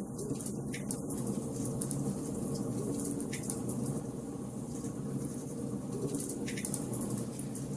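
Wood fire burning in a fireplace: a steady low crackling rush with a couple of sharp pops, about three seconds in and again past six seconds.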